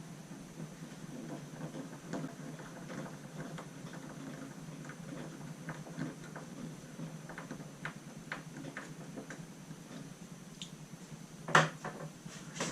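Light, irregular clicks and taps of small parts and tools being handled on a workbench, with one louder sharp knock near the end, over a steady low hum.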